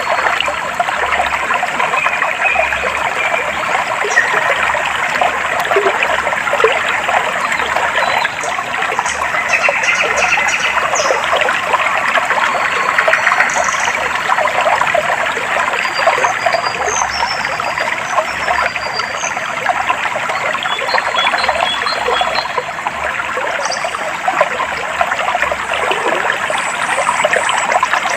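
Clear water flowing and trickling steadily, with birds chirping briefly and high-pitched now and then above it.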